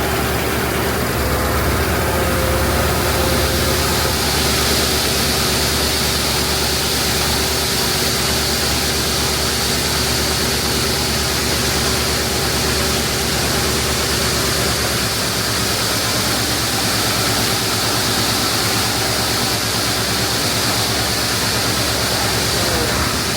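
Heavy diesel engine of corn-harvest machinery running steadily, with a constant mechanical hiss that grows a little stronger a few seconds in.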